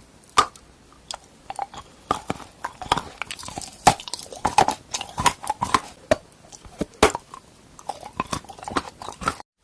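Close-miked eating: a person biting and chewing a hard, crunchy edible treat, with irregular sharp crunches and snaps. The crunching cuts off abruptly near the end.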